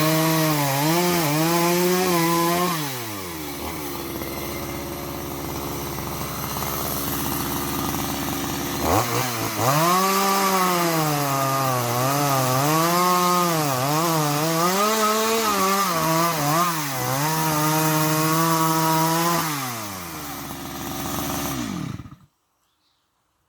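Two-stroke chainsaw running, its engine pitch rising and falling over and over as the throttle is worked, with a quieter, lower-pitched stretch of several seconds in the middle. Near the end the engine slows and then cuts off abruptly.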